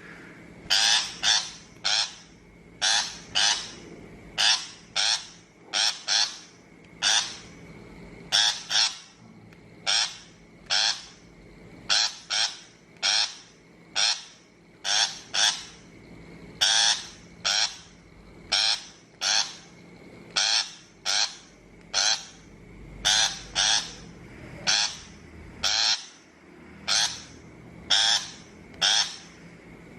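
Shrike giving harsh, rasping calls over and over, often in quick pairs, about one call a second: a recorded shrike call used as a trapping lure.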